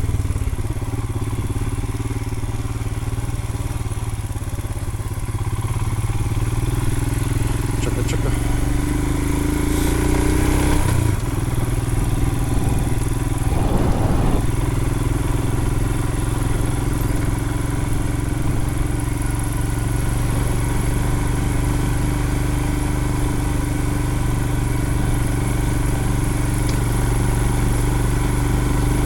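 Royal Enfield Himalayan's 411 cc single-cylinder engine running under way on the motorcycle. The engine note climbs for a few seconds, drops back about eleven seconds in, then holds steady. There is a brief clatter about fourteen seconds in.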